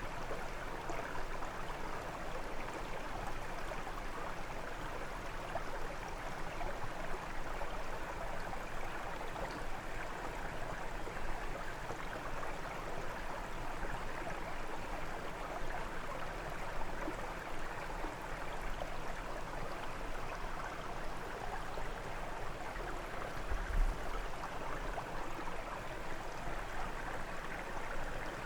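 Brook water flowing and burbling steadily over stones. A brief low thump comes near the end.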